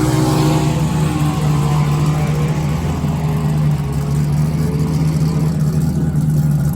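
A race car's engine revs up at the start and fades as it pulls away down the drag strip, over a steady low engine drone.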